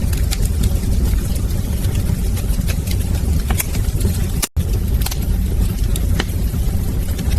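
Wood fire crackling in a fireplace: scattered sharp pops and snaps over a steady low rumble of the flames. The sound drops out for a split second about four and a half seconds in.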